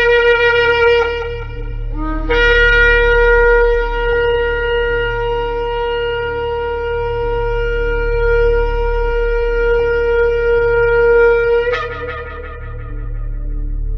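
Shofar blowing: a blast ends about a second in, then a brief lower note leads into one long, steady blast of nearly ten seconds that breaks upward at the end and dies away. A steady low hum lies beneath.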